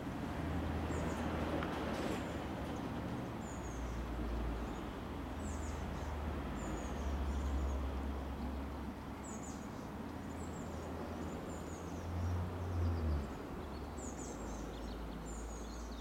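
Small birds chirping in short, high, falling calls every second or so, over a steady low rumble.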